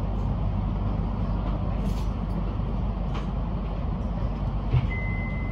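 Cabin of a Metro X'Trapolis electric train coming to a stop at a platform: a steady low rumble, a single thump near the end, then a steady high-pitched beep begins.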